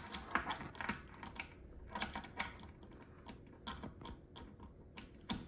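Hard plastic toy pieces clicking and tapping as they are handled, in irregular light knocks a few times a second.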